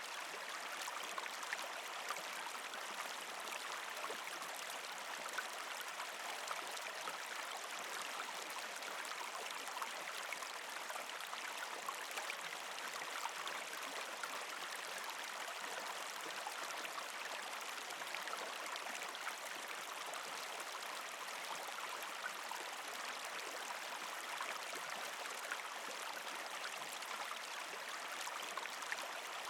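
A partially frozen creek flowing over rocks: a steady rush of water with many small trickling splashes and gurgles.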